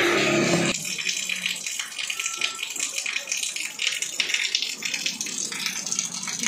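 Rain pattering steadily, a dense spread of quick, light ticks. Just before it, a short pitched sound cuts off sharply under a second in.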